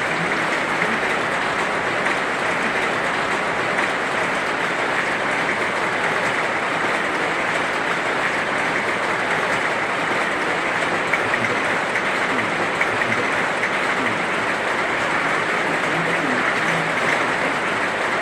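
Heavy rain falling steadily, a dense, even hiss of drops with no pauses.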